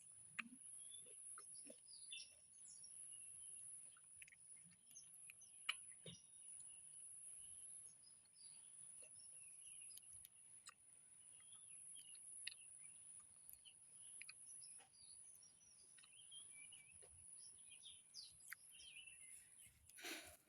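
Faint birds chirping here and there, with a few soft clicks from someone chewing a guava, over a steady high-pitched whine.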